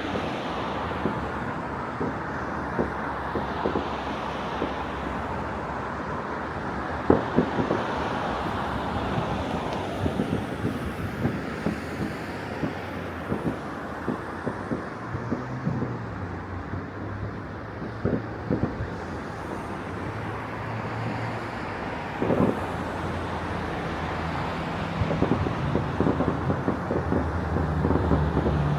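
Distant fireworks going off across a city: many irregular bangs and pops over a steady wash of urban traffic noise. About halfway through, a low engine hum comes in and grows louder near the end.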